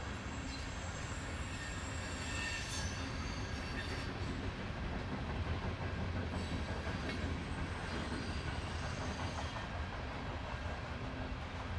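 Norfolk Southern freight train of coal hopper cars rolling past with a steady rumble of steel wheels on rail, with faint high wheel squeals now and then.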